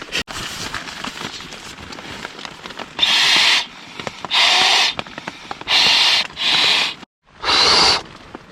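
Five strong puffs of breath blown into the valve of an inflatable sleeping pad, each about half a second long, starting about three seconds in and coming roughly every second to second and a half.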